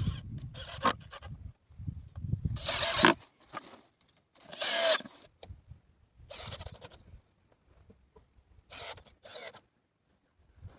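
Wood being worked with a hand tool: about five separate scraping strokes with pauses between them, the last two close together.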